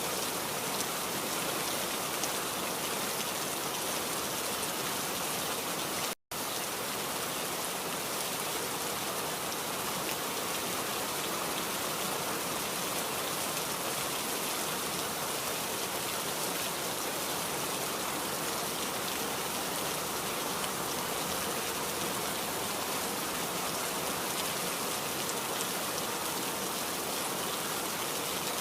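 Steady rain falling in a dense, even hiss, cutting out completely for an instant about six seconds in.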